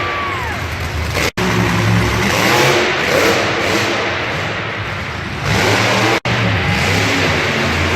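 Loud vehicle engines revving, rising and falling in pitch. The sound is broken by two abrupt gaps, about a second and a half in and about six seconds in.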